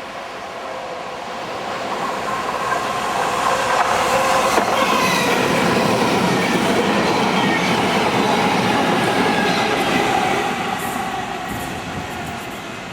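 A train passing on the line. The sound builds over a few seconds, stays loud for about six seconds with several held tones over the rumble, then fades away as the train recedes.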